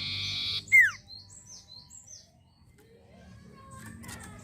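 Sirtu bird calling: a harsh, buzzy trill, then a loud falling whistle just under a second in, followed by a run of short, high, downslurred chirps.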